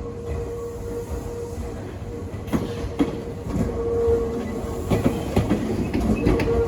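A Tokyu Ikegami Line electric train passing close by over steady running noise. From about two and a half seconds in, its wheels clack over the rail joints, and the clacks get louder and more frequent toward the end.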